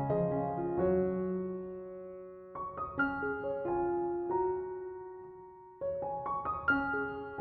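Background piano music: gentle notes and chords struck in small groups, each ringing out and fading.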